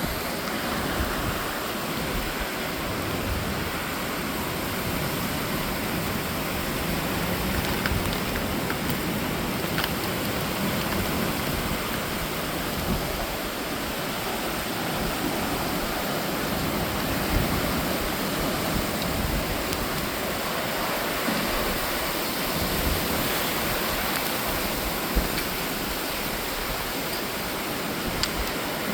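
Steady rain falling, an even hiss with a few sharp ticks of single drops.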